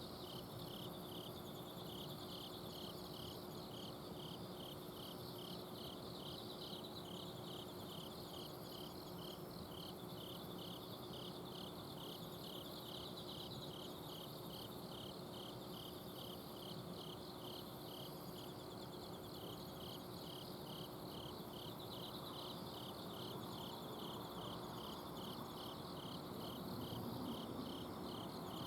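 Autumn crickets calling at night. One gives evenly spaced short chirps, about two a second, while others trill higher. Under them runs the steady hum of an air conditioner's outdoor unit.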